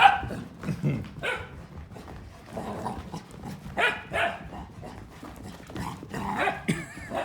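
Pet dogs barking during rough play, short barks in pairs every second or two.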